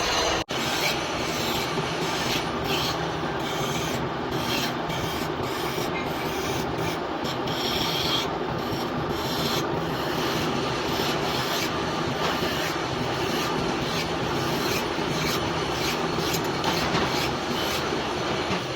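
Lathe machining a metal hydraulic piston: a steady rasping, rubbing noise of metal being worked, with irregular scratchy crackles on top.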